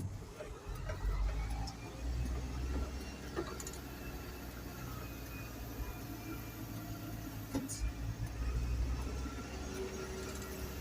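Isuzu garbage truck's engine running while driving, a low steady drone, with a couple of faint knocks.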